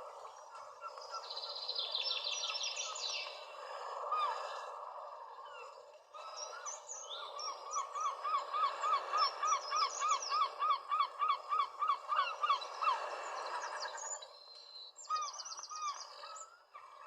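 Birds calling over a steady rushing background noise. There is a fast high trill early on, then a long series of repeated rising notes at about four a second, and another short trill near the end.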